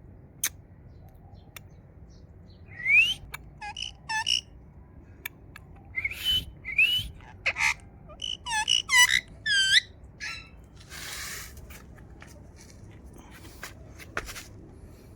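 Parrot whistling and chirping: a few rising whistles, then a quick run of hooked chirps, with scattered sharp clicks and a brief hiss-like burst.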